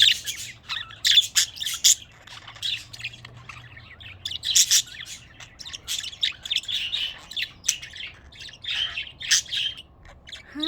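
Pet budgerigars chirping and warbling, a quick run of short scratchy calls with brief pauses: budgie song.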